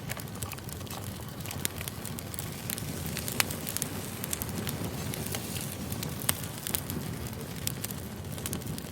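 Campfire burning: a steady low rush of flame with frequent sharp crackles and pops from the wood.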